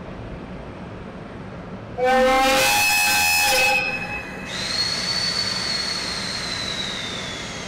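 EF65 electric locomotive's horn giving one loud, full blast of nearly two seconds, about two seconds in, as the departure signal. Afterwards a thin high tone slowly falls in pitch.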